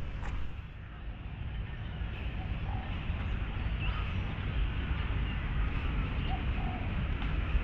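Urban park ambience: a steady low rumble of city traffic, with birds calling and a few short dove coos.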